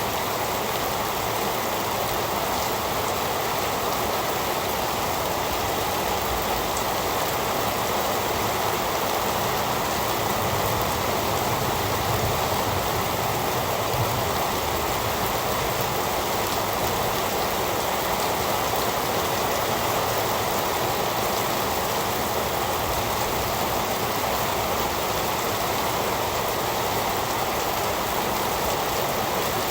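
Heavy rain falling in a steady, even downpour, a dense hiss with no breaks or separate drops standing out.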